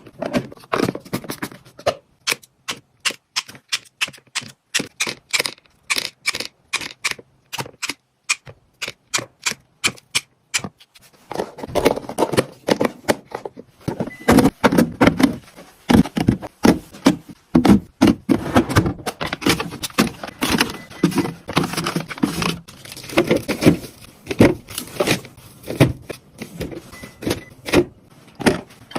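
Plastic containers and small packaged items being handled and set in place while a refrigerator is stocked. At first it is a run of separate sharp clicks and taps. From about halfway it becomes a denser clatter of knocks, rattles and rustling.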